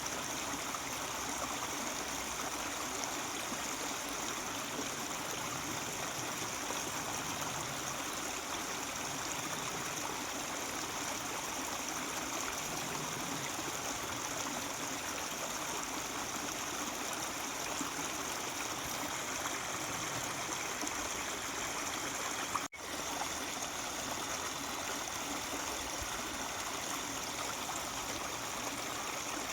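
Mountain stream babbling steadily over rocks. The sound cuts out for an instant about three quarters of the way through, then carries on unchanged.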